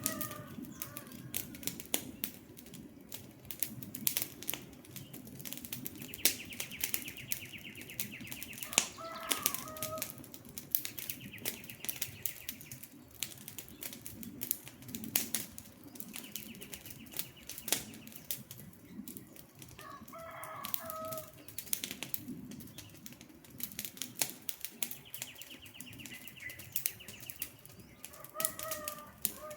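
Wood campfire crackling with frequent sharp pops. Short bird calls come in roughly every ten seconds, and a high, buzzy pulsed trill sounds four times, each lasting about two seconds.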